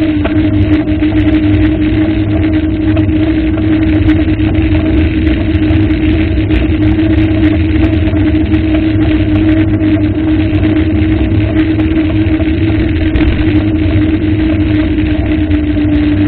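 An engine running at a steady speed: a constant low hum over a rushing noise.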